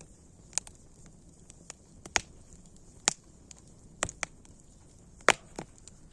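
Wood fire crackling: sharp pops and snaps at irregular moments over a soft steady hiss, the loudest pop about five seconds in.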